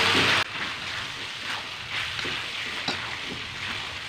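Chicken pieces sizzling in a wok as a metal spatula stirs them, with light scrapes and clicks of the spatula against the pan; the cooking liquid has boiled down to fat, so the chicken is frying. The sizzle is loud for the first half second, then drops suddenly to a steadier, quieter hiss.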